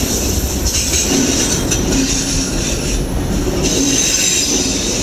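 Freight train of autorack cars passing close by: a steady rumble of wheels on the rails with a high-pitched wheel squeal over it, which dips briefly about three seconds in.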